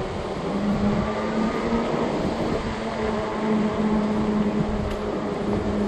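Wind buffeting the microphone while a fat-tire e-bike rides along with a steady hum.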